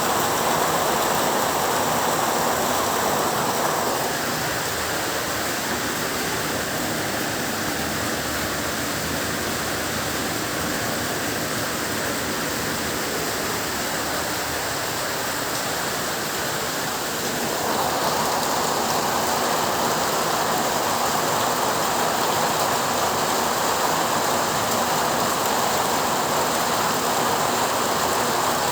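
Heavy rain falling steadily. It eases a little about four seconds in and grows heavier again after about seventeen seconds.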